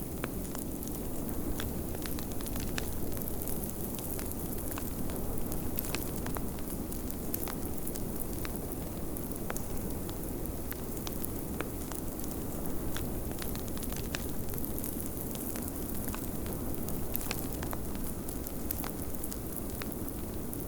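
Wood fire crackling in a fireplace, with frequent small sharp pops and snaps scattered irregularly over a steady low rush of blizzard wind.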